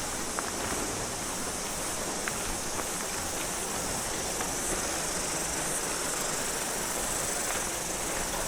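Steady high-pitched buzzing chorus of cicadas in native bush, an unbroken shrill hiss.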